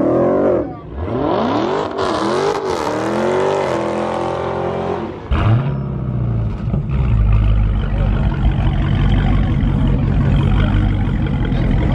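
A car engine revving, its pitch rising and falling several times, then from about five seconds in a deep steady engine rumble.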